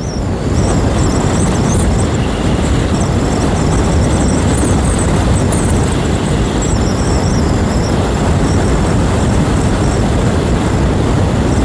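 Wind rushing and buffeting over the microphone on a moving 125 cc motorcycle, with the bike's engine running steadily underneath at road speed.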